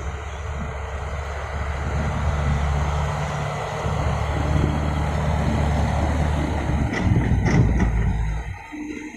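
Heavy diesel engine running steadily, louder from about two seconds in, with a few sharp knocks near the end before it quietens.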